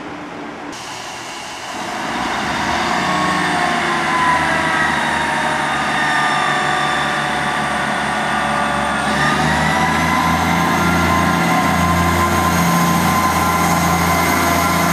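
Diesel train running through the station, its engine tones growing louder about two seconds in. The pitch of its whine changes abruptly about nine seconds in.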